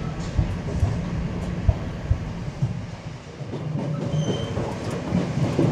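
Sangi Line electric passenger train heard from inside the car as it runs: a steady low rumble with wheel knocks over the rail joints, and a brief high tone about four seconds in.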